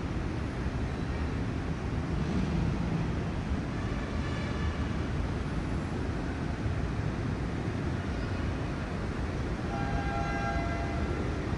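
Steady rumble of city road traffic, with two short pitched horn-like tones, one about four seconds in and one near the end.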